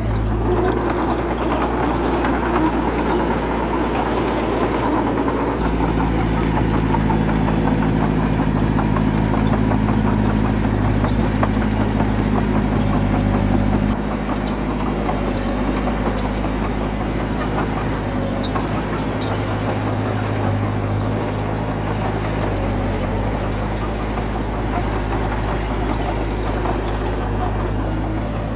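Diesel engine of heavy earthmoving equipment running steadily, its note shifting abruptly about six seconds in and again about fourteen seconds in.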